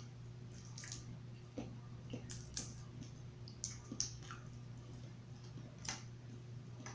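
Quiet, wet mouth sounds of someone eating boiled seafood: soft squishes, smacks and clicks, a few of them spread through, over a faint steady low hum.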